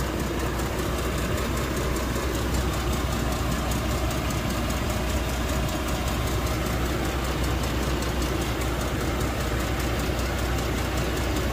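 GMC Envoy running with a steady low drone while it is driven slowly back into its parking spot.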